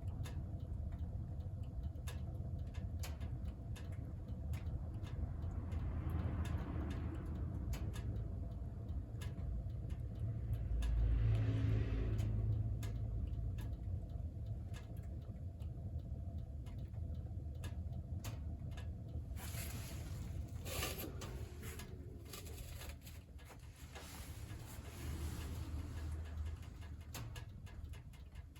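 Wood fire burning in a wood stove: scattered crackles and snaps over a steady low rumble, which swells about eleven seconds in.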